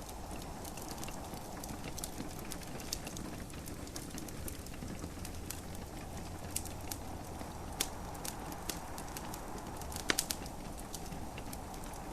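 Wood fire in a fireplace crackling, with irregular sharp pops over a steady low hiss; the loudest pops come in a cluster about ten seconds in.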